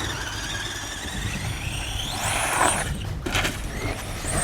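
High-pitched whine of a radio-controlled truck's motor and drivetrain, rising steeply in pitch as the truck is throttled up about two seconds in, then easing and climbing again near the end.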